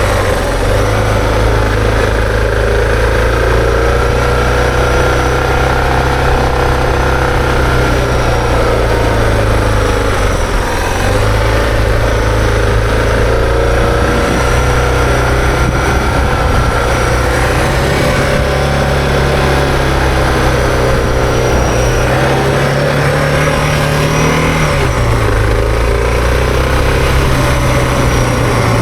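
Suzuki DR650 dual-sport motorcycle's single-cylinder four-stroke engine running steadily under way. The revs ease off briefly about ten seconds in, then climb from about twenty-two seconds and drop back three seconds later.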